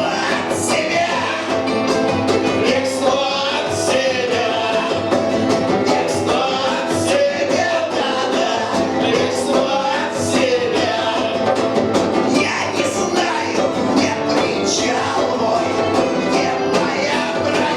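Punk rock band playing live at full volume: a driving drum beat with cymbal hits under dense band sound, with a voice singing over it.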